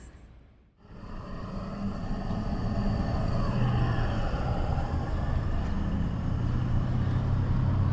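A car driving on a road: steady engine and tyre noise with a low hum, building up over the first couple of seconds and then holding steady.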